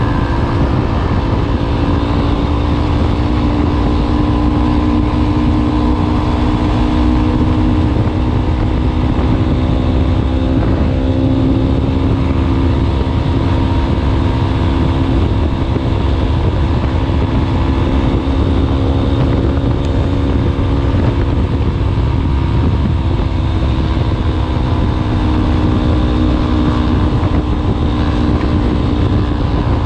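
Yamaha Ténéré 250's single-cylinder four-stroke engine running through a WACS aftermarket exhaust tip. It holds a fairly steady speed, with a deep exhaust rumble whose pitch shifts slightly now and then.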